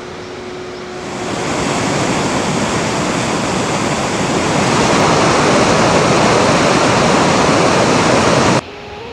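Loud, steady rushing water, growing louder about a second in and again around five seconds, then cutting off abruptly near the end.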